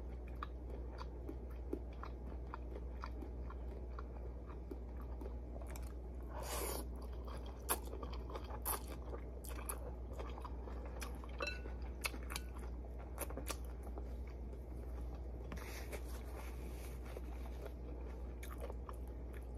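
Chewing and biting ramen noodles close to the microphone: soft crunches and small mouth clicks, with two longer noisy stretches about six and sixteen seconds in. A steady low hum runs underneath.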